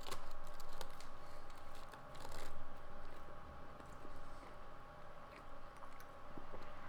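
A mouthful of meatball sandwich on cheesy garlic bread being chewed, with small irregular clicks and smacks, over a faint steady hum.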